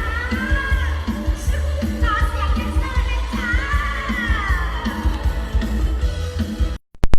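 A sung Isan-language pop song: a voice with wavering vibrato over a steady thumping bass beat. The music cuts off abruptly near the end.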